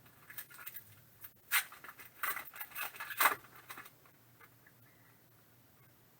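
Trading cards being thumbed through and slid against one another, a series of short swishes over the first four seconds, then faint room tone.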